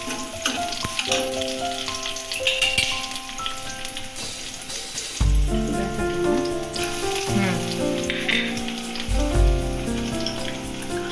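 Food frying and sizzling in a pan, with background music over it whose melody gains a deep bass part about five seconds in.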